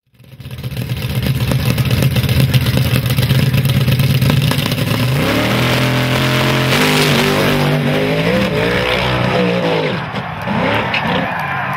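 Drag-racing car engine at full throttle: a loud, steady rapid-firing exhaust, then engine pitch climbing in several steps as the car accelerates down the strip through its gears.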